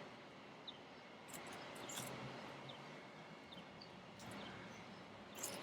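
Faint outdoor ambience: a few short, soft high chirps over a low hiss, with occasional light clicks and rustles from handling sticks.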